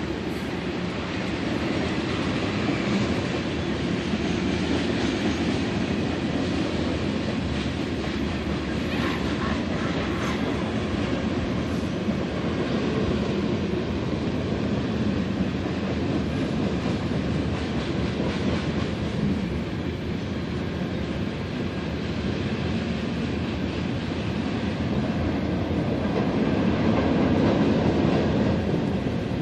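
Freight cars of a manifest train rolling past, a steady rumble of steel wheels on rail with clacking over the rail joints.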